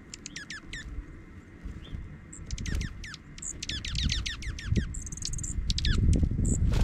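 Dark-eyed juncos and other small songbirds calling in quick runs of short, downward-sweeping chips, with a brief buzzy note about five seconds in. Under them a low rumble grows louder toward the end.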